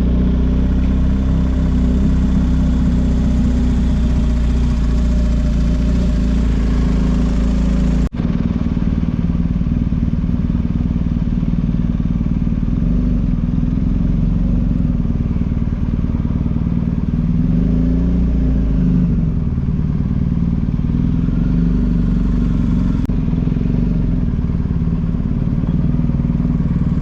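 Motorcycle engine running steadily at road speed, with rushing noise over it, broken by one brief sharp cut about a third of the way through.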